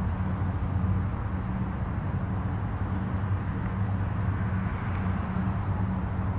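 Distant highway traffic: a steady, unbroken rumble and hiss of passing vehicles, weighted toward the low end with a constant low hum.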